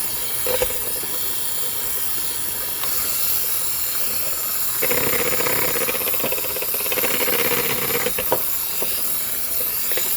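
Electric hand mixer running steadily with a hissing whine as it beats thick brownie batter, getting louder about five seconds in, with a few short knocks along the way.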